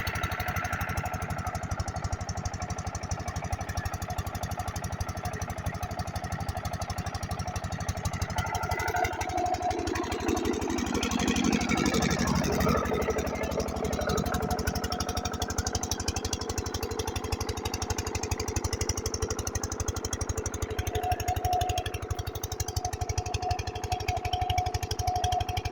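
Large Kranti engine running steadily to drive a water pump, with a fast even beat that grows a little louder and lower-sounding for a few seconds around the middle.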